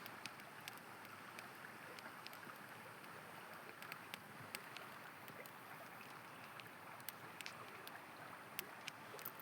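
Steady rushing of a river, with a campfire crackling over it in sharp, irregular pops about once a second.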